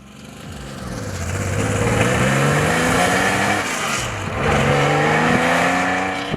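Porsche 911 Carrera MFI rally car's air-cooled flat-six accelerating hard, getting louder over the first two seconds. The engine note rises, drops at a gear change about four seconds in, and rises again before cutting off.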